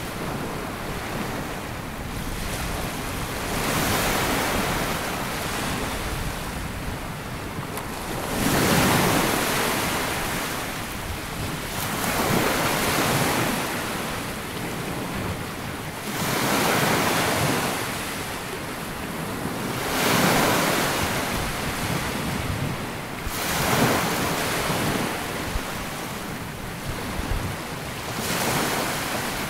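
Small sea waves breaking and washing up a sandy beach, a surge every three to four seconds over a steady hiss of surf, with some wind on the microphone.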